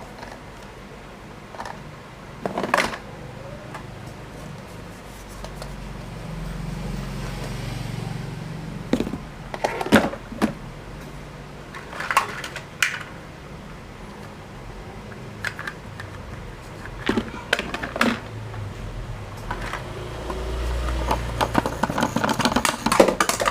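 Plastic toys being handled, with scattered clicks and knocks as pieces are picked up and set down, and a few low rumbling stretches.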